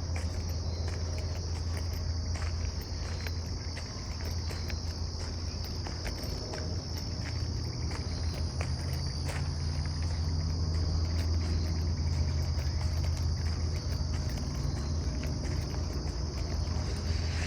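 A chorus of crickets and other insects chirring steadily on one high pitch, with footsteps on the path making light scattered crunches.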